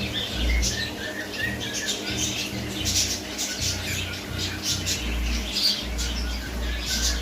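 Many caged birds chirping and squawking at once, a dense chatter of short high calls with no pause, over intermittent low rumbling.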